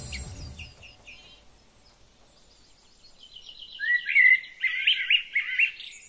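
Birds chirping and calling: a rapid run of high chirps from about three seconds in, then loud, quickly repeated whistled calls. A short low rumble sounds at the very start.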